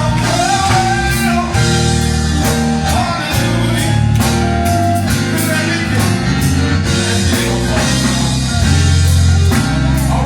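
Live gospel song: a band with drums and guitar playing, with voices singing over it.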